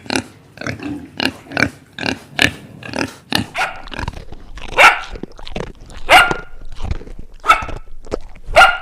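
Animal calls: a quick run of short grunting calls, about three a second, then four louder, pitch-bending calls about a second apart in the second half.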